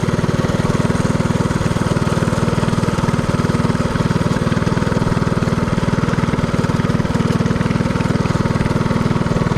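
Minibike's Predator 224cc single-cylinder four-stroke engine running steadily under way, with an even firing rhythm that holds the same pitch throughout.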